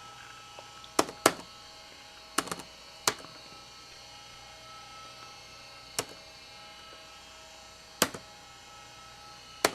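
Sharp mouse-button clicks, about eight at irregular spacing, some in quick pairs, over a steady hum with faint high whining tones.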